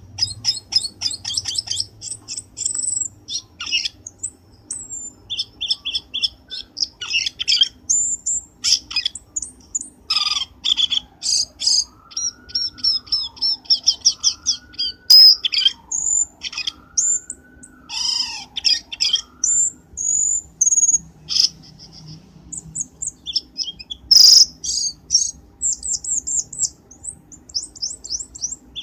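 Cucak keling calls played as a bird-trapping lure: rapid high chirps, trills and short whistles in quick succession. A fainter, lower warble rises and falls through the middle.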